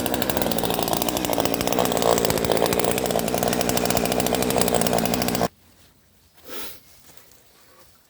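Small two-stroke top-handle chainsaw running at high revs while cutting, its engine note dipping and rising under load, then stopping abruptly about five and a half seconds in. After that, only a brief faint rustle.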